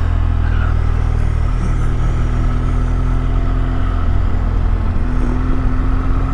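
Motorcycle engine running at a steady cruise on the move, its low note holding even with riding noise over it.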